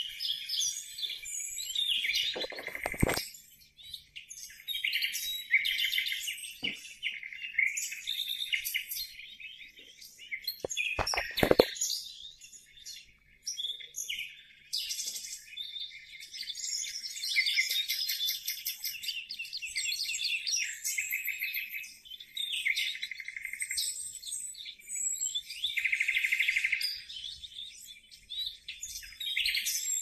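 Bird chirping and twittering, rapid high calls running nearly without a break, with short pauses. Two brief low thuds come about three seconds in and again around eleven seconds, the second the loudest sound.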